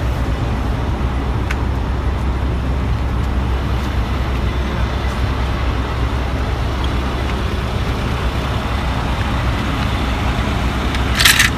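Steady low rumble of motor-vehicle noise, with a short sharp clatter near the end.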